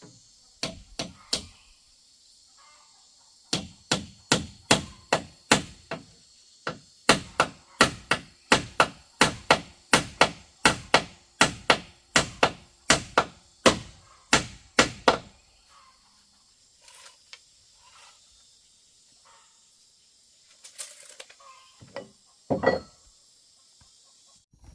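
Repeated, evenly spaced tool strikes on bamboo, about two to three blows a second with a short break about six seconds in. After them come a few scattered quieter knocks and one loud knock near the end.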